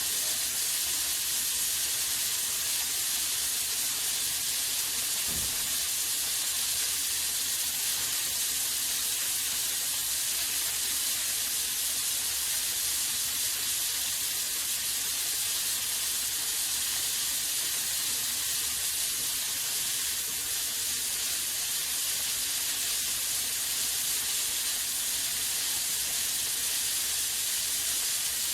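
Pulsed welding arc on an automated welding lathe, hissing steadily through a weld cycle, with a brief low bump about five seconds in.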